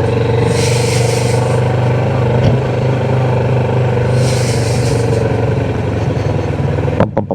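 Motorcycle engine idling steadily at a constant pitch, with two short hissing rushes over it, about half a second in and about four seconds in. The engine sound cuts off abruptly near the end.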